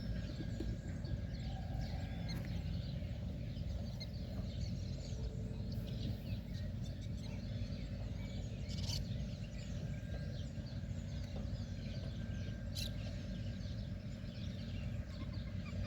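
Steady low rumble with a faint constant hum underneath, birds calling faintly, and two sharp clicks about nine and thirteen seconds in.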